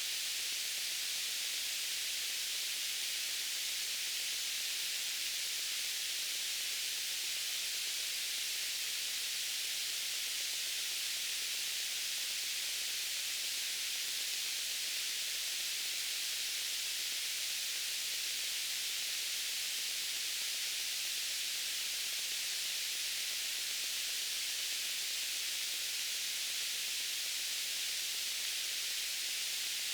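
Steady white-noise hiss, strongest in the high range and thin in the lows, unchanging throughout.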